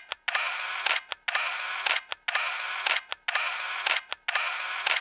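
Camera shutter sound effect repeated about once a second, each a sharp click followed by a short rush of noise.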